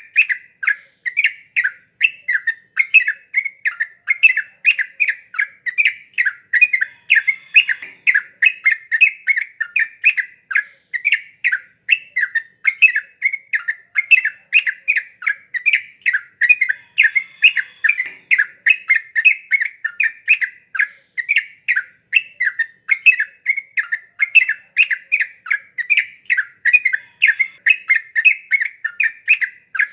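Yellow-vented bulbul (trucukan) singing in full, lively voice: an unbroken run of short, bubbly chattering notes, several a second, kept up without a pause.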